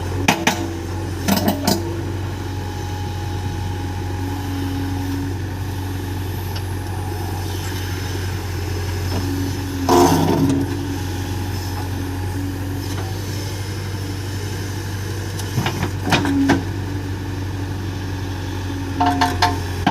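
Excavator's diesel engine running steadily, with a handful of short, sharp knocks: near the start, around ten seconds in, around sixteen seconds and near the end.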